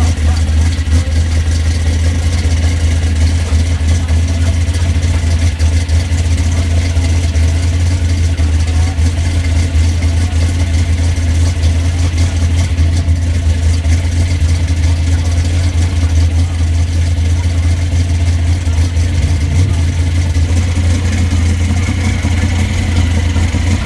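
Supercharged, carbureted V8 of a mid-engined van idling steadily, with a deep, even low rumble.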